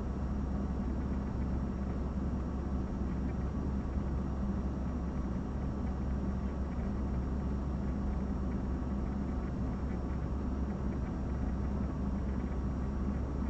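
A steady low rumbling hum under an even hiss, with a thin high whine running through it and no change throughout.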